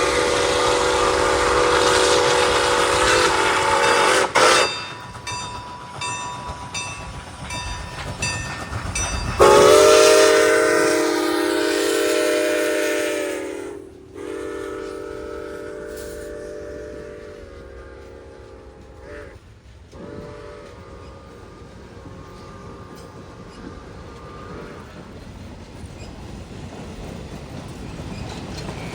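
Locomotive air horn sounding a series of long chord blasts, the later ones fainter as the train moves away. Between the first two blasts a regular bell dings about twice a second.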